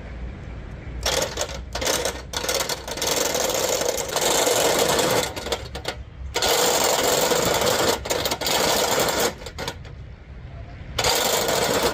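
A loud power tool or machine running in three bursts of a few seconds each, with short pauses between them.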